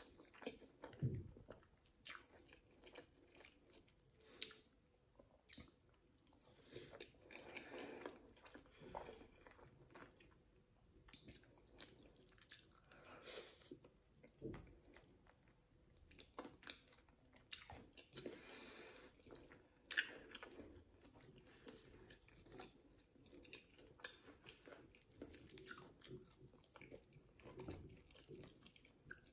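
Quiet close-miked eating sounds: a person chewing and biting into grilled meat and pap, with soft wet mouth sounds and scattered sharp clicks, the sharpest about twenty seconds in.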